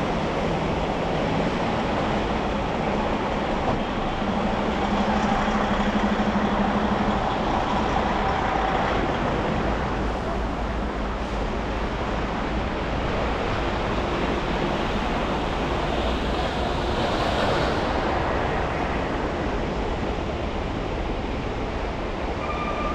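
Steady road and traffic noise from driving on snowy city streets, with a broad hiss that swells briefly about two thirds of the way through.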